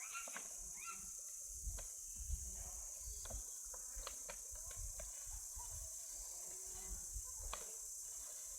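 Insects chirring steadily in a high-pitched, unbroken band, with a few short chirps near the start and scattered sharp clicks and low knocks.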